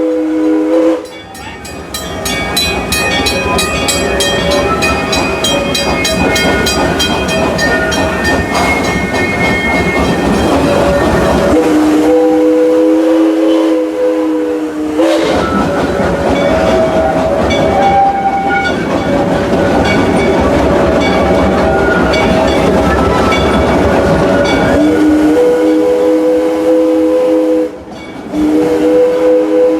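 Steam locomotive's chime whistle blowing a steady chord in long blasts: one at the start, one of about three seconds around twelve seconds in, another around twenty-five seconds in, and a last one near the end. Between the blasts the train runs with a steady rumbling noise.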